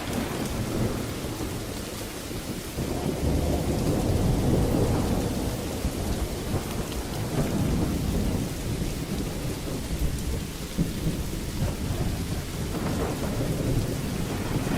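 Steady rain falling, with rolling thunder rumbling low underneath and swelling louder about three seconds in and again near the end.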